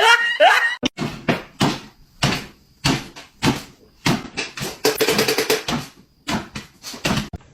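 A string of sharp knocks and bangs, like a cupboard or door being knocked against, about one or two a second, with a quick rattle of taps about five seconds in.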